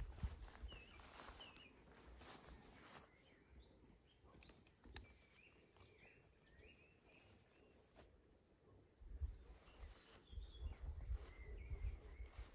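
Faint rural outdoor ambience: small birds chirping in short, twittering phrases now and then, with a few sharp clicks. Low rumbling thuds come at the start and again from about nine seconds on.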